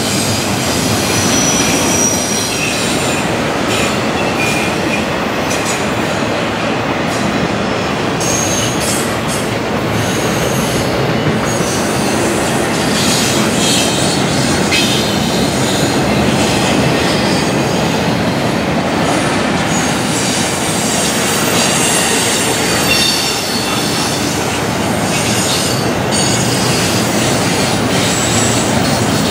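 Train cars rolling past: a steady, loud rumble of wheels on rail, with high-pitched wheel squeal coming and going and some clicking over the rail joints.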